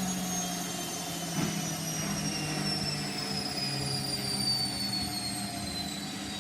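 Hotpoint washing machine's drum on a 1400 rpm spin, its motor whine falling slowly in pitch as the drum slows. There is one short knock about a second and a half in.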